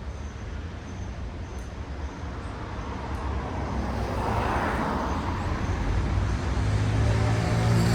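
Road traffic: vehicles passing on a city street, with tyre and road noise swelling about halfway through. A low engine hum then grows steadily louder toward the end as another vehicle approaches.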